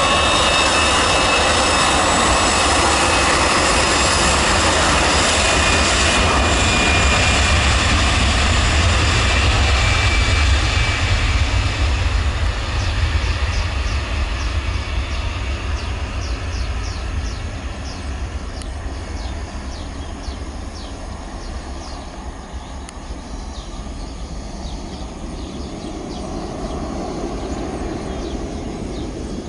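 Jet airliner's engines running close by: a loud deep rumble with a high whine, fading away over the second half as the aircraft moves off.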